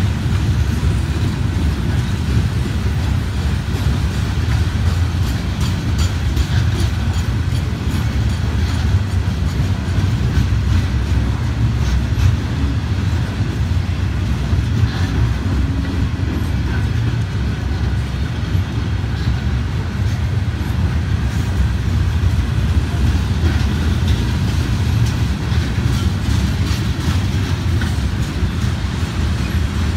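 Freight train of Norfolk Southern steel-coil cars rolling past: a steady low rumble of wheels on rail with faint clicking over the rail joints.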